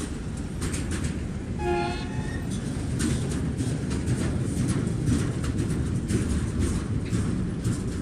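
Freight train wagons rolling past close by: a steady rumble with repeated wheel clacks over the rail joints. A brief pitched toot sounds about two seconds in.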